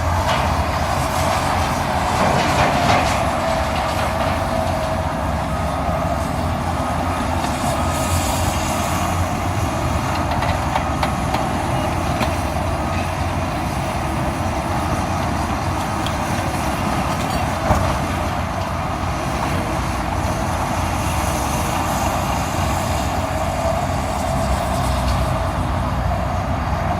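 Diesel engines of a zero-swing excavator and dump trucks running steadily as trucks are loaded, with one sharp knock about two-thirds of the way through.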